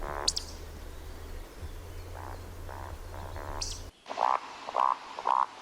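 Woodcock roding call: short, rhythmic croaking grunts in little runs, each run followed by a sharp, high squeak. A louder recording of the same croaks comes in about four seconds in.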